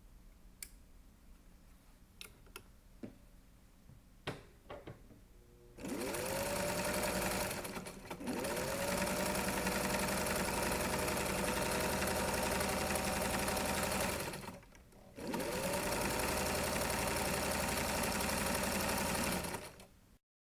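Electric sewing machine stitching upholstery, running in three spells with two short pauses; its motor speeds up at the start of each run and then holds steady. A few light clicks come before it starts, about six seconds in.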